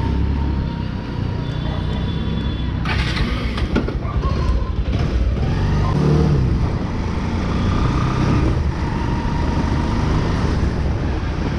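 Motorcycle on the move heard from the rider: a steady low engine and wind rumble on the microphone, with a short burst of hiss about three seconds in.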